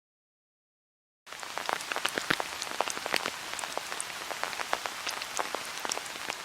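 Rain falling, many separate drops heard as sharp ticks over a steady hiss; it starts abruptly after total silence about a second in.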